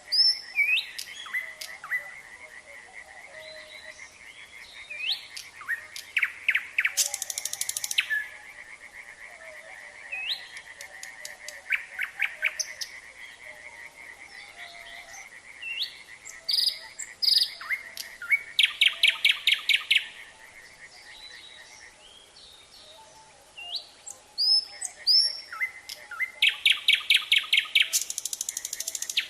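Nightingale singing in separate phrases of rising whistles and fast runs of repeated notes, with pauses between them, over a steady chorus of frogs.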